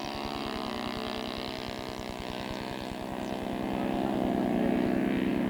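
Twin-engine radio-controlled scale model airplane taking off on two O.S. 120 Surpass four-stroke glow engines, running at high throttle with a steady, even note. It gets louder from about halfway through as the model climbs off the runway.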